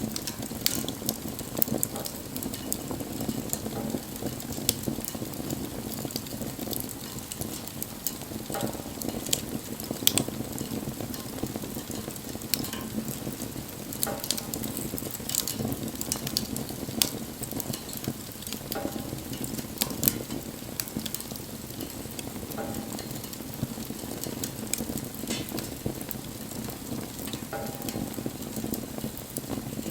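Wood fire burning, with a steady low rush and frequent sharp, irregular crackles and pops.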